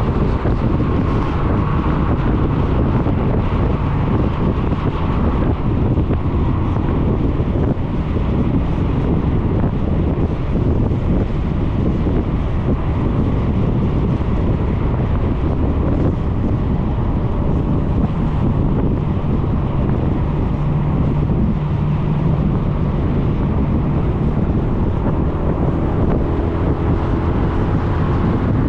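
Wind buffeting a GoPro microphone on a moving scooter, a steady low rumble, with the Suzuki Burgman 400's engine and road noise underneath. A faint rising engine tone comes in near the end.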